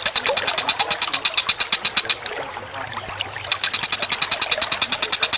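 Songbird chattering: a fast run of sharp, high repeated notes, about ten a second. It breaks off for about a second just past the two-second mark, then starts again.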